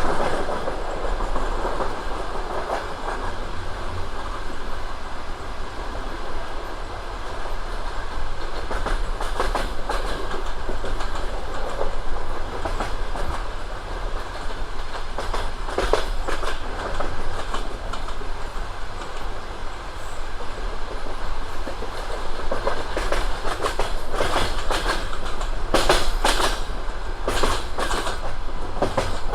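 Railway wheels rumbling along the track, with bursts of clickety-clack as they cross rail joints, the loudest run of clicks near the end.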